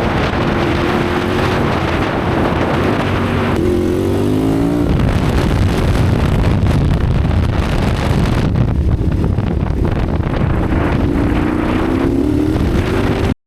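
KTM 990 Adventure R's V-twin engine running on the move, its pitch rising about four seconds in and again near the end, over a steady rushing noise. The sound cuts off suddenly at the very end.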